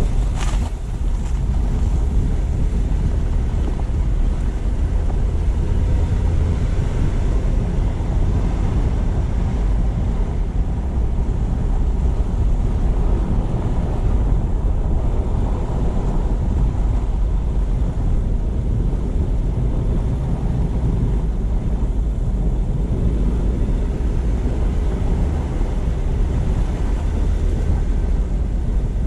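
Car driving: a steady low rumble of road and tyre noise, with wind buffeting the microphone. A brief hiss about half a second in.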